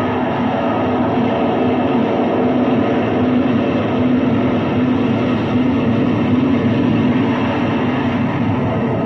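Electronic noise music: a dense, steady rumbling drone with a wavering low hum running through it.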